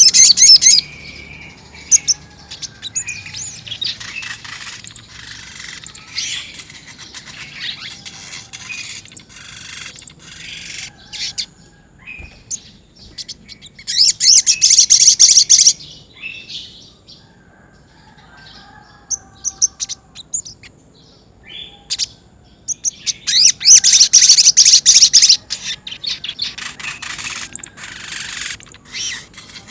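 A sogon, a small sunbird-family songbird, singing in fast, high rolling trills ('ngerol'), with two long loud bursts about 14 and 24 seconds in and shorter scattered chirps between.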